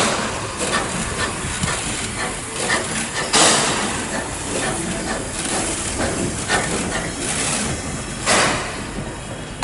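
Heritage train with a steady rushing noise and sharp bursts of hissing, one about three and a half seconds in and another near the end.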